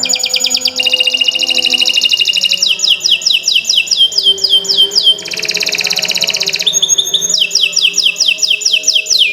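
Domestic canary singing a long, unbroken song of rapid trills. It repeats one note many times a second, then switches to a new note type every second or two, many of them quick falling sweeps.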